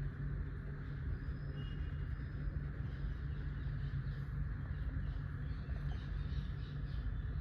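A steady low hum, with faint high-pitched squeaks typical of a newborn kitten, a few coming near the end.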